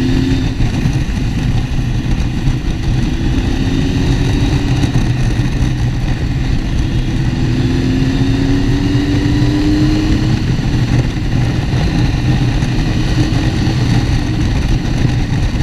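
Motorcycle engine running while riding at road speed, a steady low rumble; its pitch climbs slowly twice, in the first second and again from about halfway through, as the bike speeds up.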